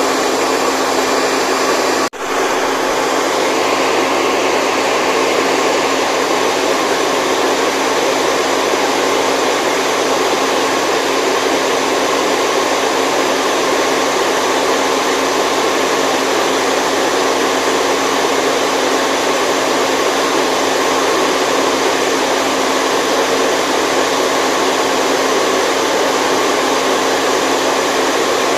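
Steady, loud rushing white noise used as a sleep sound for a baby, with a brief dropout about two seconds in.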